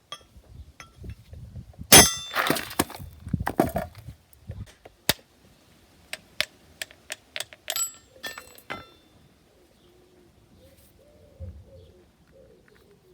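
Metal clanging and clinking: one loud ringing clang about two seconds in, then a run of sharp, ringing metallic clinks and knocks that stops about nine seconds in. A pigeon coos softly near the end.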